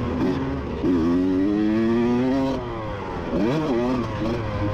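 Two-stroke motocross bike engine revving hard under racing throttle. About a second in it is held open with the pitch climbing for a second and a half, then shut off; a quick blip up and down follows before it settles at lower revs.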